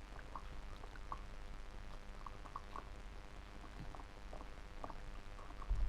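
A dog working at a treat-dispensing bone toy: faint, irregular clicks and taps over a steady low hum, with a soft thump near the end.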